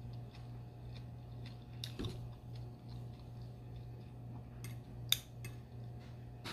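Close-up eating sounds: quiet chewing with a few short, crisp clicks, the sharpest about five seconds in.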